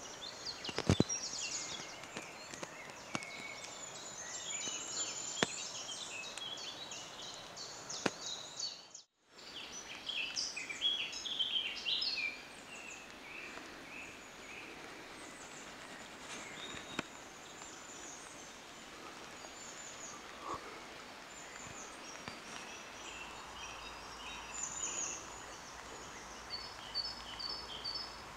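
Several birds singing and chirping over a low outdoor hiss, with a few sharp clicks and a brief gap about nine seconds in.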